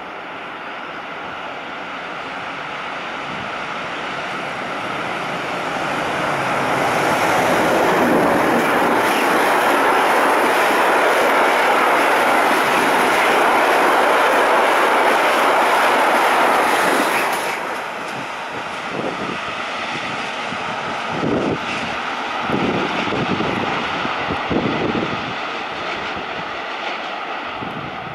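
Freight train hauled by an EU43 electric locomotive passing at speed. The rush of the approaching train builds steadily, then the open freight wagons rumble loudly over the rails. About two-thirds through the sound drops sharply and carries on quieter, with scattered wheel knocks, as the wagons pull away.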